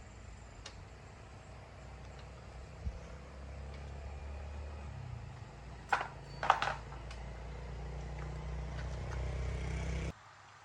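Small engine running steadily at a low pitch, getting slowly louder, with two sharp knocks about six seconds in; it cuts off suddenly near the end.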